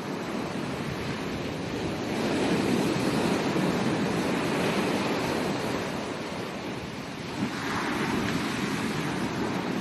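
Ocean surf washing onto a beach: a continuous hiss of waves that swells and eases, building about two seconds in and again about eight seconds in.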